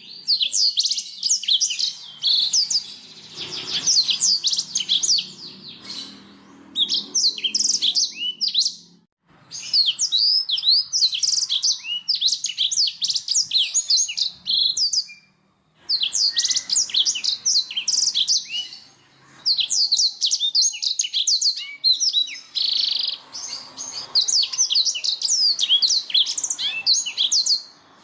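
Canary singing: long phrases of rapid, high chirps and trills, broken by a few brief pauses.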